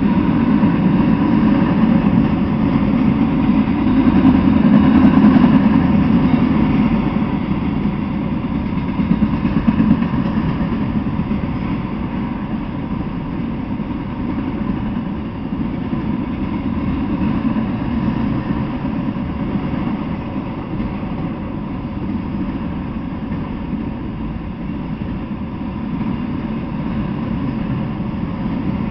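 Freight train of autorack cars rolling past: a steady rumble of steel wheels on the rails, loudest about five seconds in and easing off slightly after.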